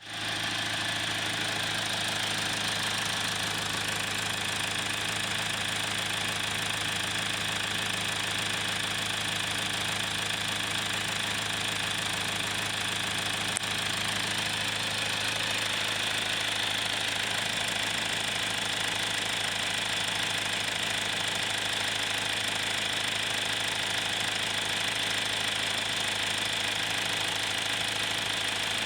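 Toyota RAV4 2.2-litre four-cylinder turbo-diesel engine idling steadily.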